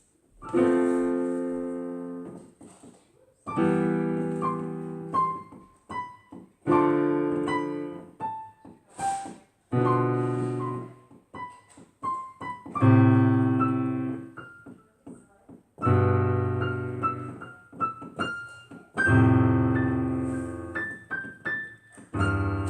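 A slow improvised piano piece: a low chord is struck about every three seconds and left to die away, and single higher notes are picked out in between.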